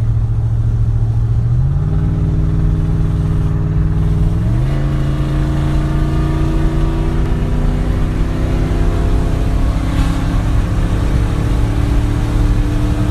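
Car engine accelerating hard: its revs jump up twice in the first few seconds, as with kickdown downshifts, then climb steadily.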